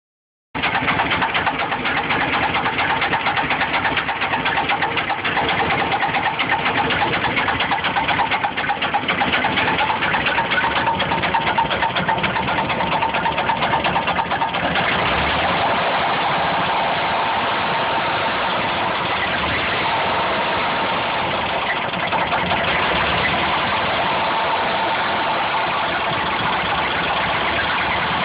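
1953 Cadillac 331 V8 engine running at idle with a rapid, busy clatter, in a condition its owner calls dying. About halfway through, the sound changes and evens out a little.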